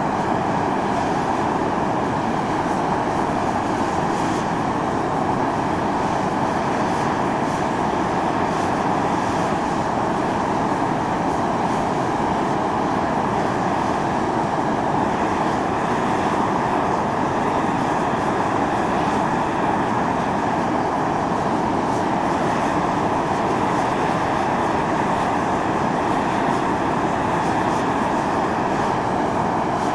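Fumarole on Atosanupuri (Mt. Io) venting volcanic steam: a steady, unbroken hiss that does not rise or fall, strongest in the middle range.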